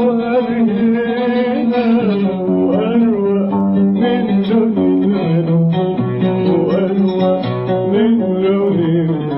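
Instrumental passage of an Arabic song: plucked oud notes stepping through a melody, with a wavering melodic line above them.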